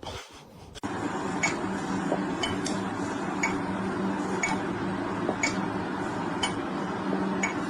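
A clock ticking evenly about once a second over a steady low hum.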